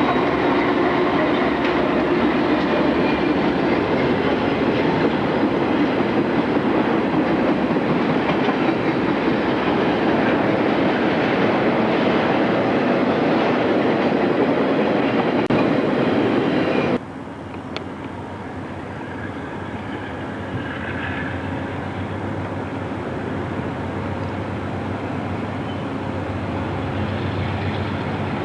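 A train rolling past with a steady rumble of wheels on rail. About 17 seconds in, it cuts off abruptly to a quieter low rumble that slowly grows louder.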